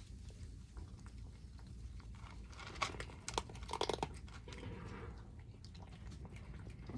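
Kittens eating, chewing and crunching their food in quick irregular clicks, loudest in a cluster around the middle.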